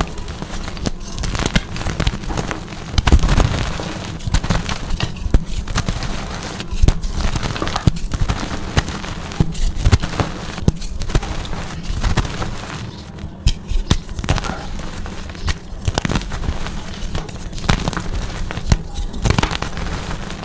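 Blocks of gym chalk being crushed and crumbled, a steady run of dry crunching and crackling with many sharp snaps.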